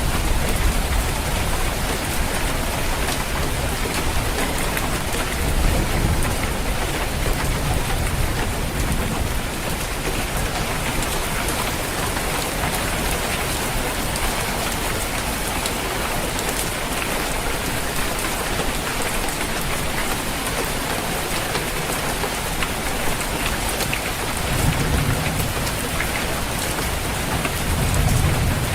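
Steady heavy rain drumming on a roof, with low rolls of thunder rumbling about six seconds in and again near the end.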